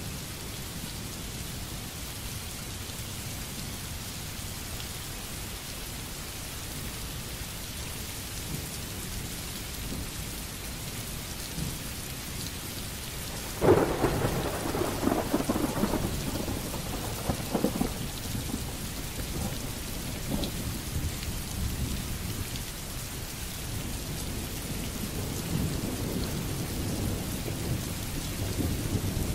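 Steady rain falling, with a sudden clap of thunder about halfway through and rolling rumbles that go on for several seconds after.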